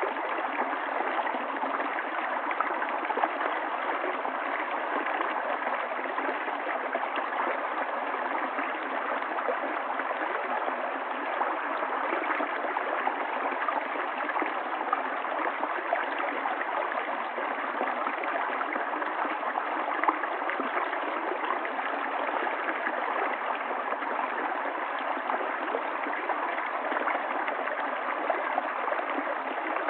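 Stream water running in a steady, even rush with no pauses.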